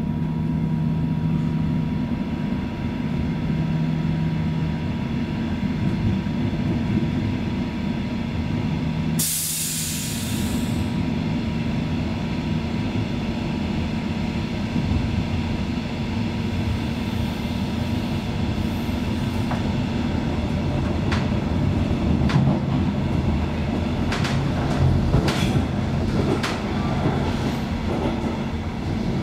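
Inside a Metronom double-deck coach running at speed: a steady rolling rumble of the wheels on the rails. There is a short hiss about nine seconds in, and a run of sharp wheel clicks through the last third.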